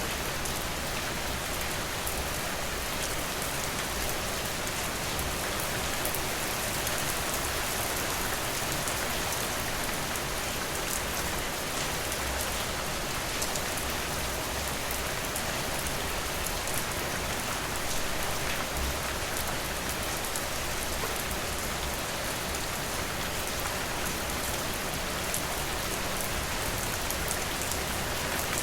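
Steady rain falling, with the dense patter of many drops on hard surfaces.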